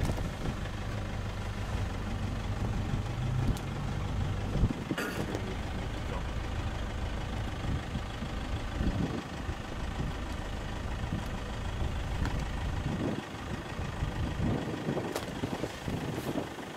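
Safari vehicle's engine idling with a steady low hum, which stops about four and a half seconds in, leaving an irregular low rumble.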